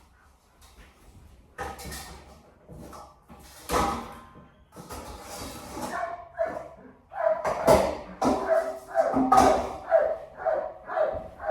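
A dog whining and barking in short, repeated pitched cries, about two a second, starting about seven seconds in. Before that there are a few scattered knocks and scuffles.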